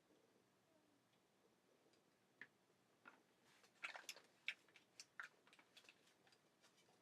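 A scattering of faint, sharp clicks and ticks, irregularly spaced, starting about two and a half seconds in and thickest around four seconds.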